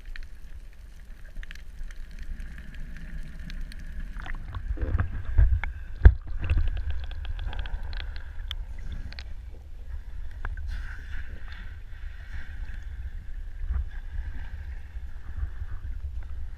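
Underwater camera audio: a steady low rumble of water against the housing, with a spell of bubbling and crackling clicks in the middle and one sharp knock about six seconds in.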